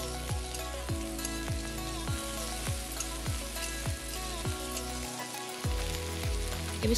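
Chopped onions and tomatoes sizzling in mustard oil in a kadai, under background music with a steady beat.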